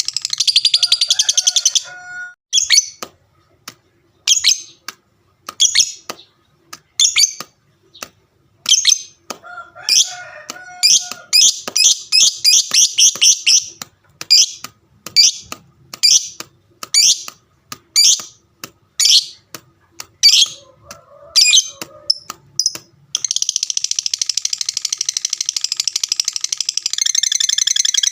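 Fighter lovebird's 'ngekek' song: rapid, shrill chattering. It breaks into single sharp chirps about every second and a half, with a quicker run in the middle, then settles into a long unbroken chatter near the end.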